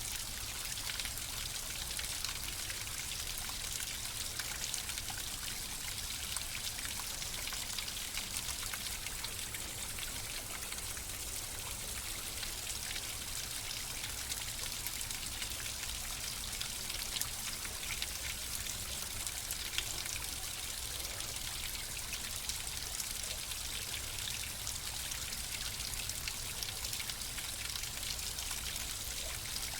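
Running water flowing steadily, with a fine patter of small splashes and drips over a low rumble.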